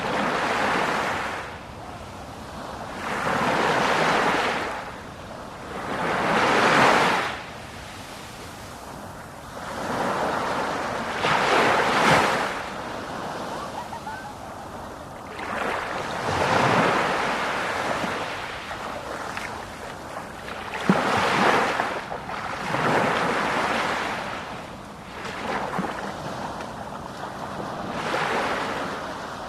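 Sea waves breaking and washing on the shore: a rushing surf noise that surges and falls back in swells every few seconds.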